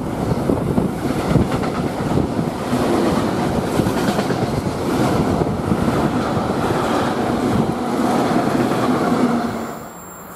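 Freight train wagons rolling past close by: a steady, loud rumble with the wheels clattering over the rails. The sound drops away sharply about nine and a half seconds in.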